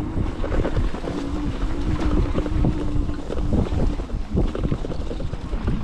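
Wind rushing over the microphone of a moving e-bike, with uneven bumps and jolts from the ride and a faint steady hum for the first half.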